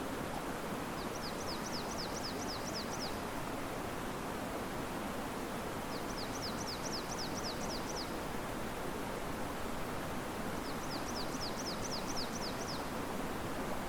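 Steady rush of river water with wind in the riverside trees. Over it, a bird sings three times, about every five seconds: each time a quick run of about ten high, falling notes lasting about two seconds.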